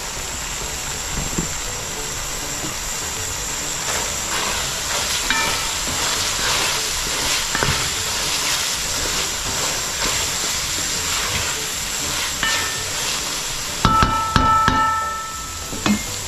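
Curried green pigeon peas sizzling as they fry down in a pot, with a steady hiss. Near the end come a few ringing metallic knocks, like a spoon against the pot.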